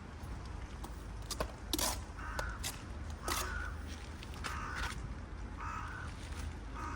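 A bird calling five times, short calls about a second apart, with a few sharp taps in between over a low steady hum.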